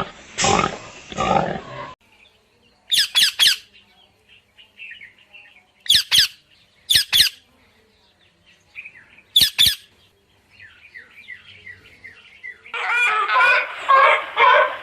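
Birds chirping, broken by several short, sharp squawks, some in quick pairs. It opens on the end of a pig's grunting and ends with a burst of laugh-like chattering.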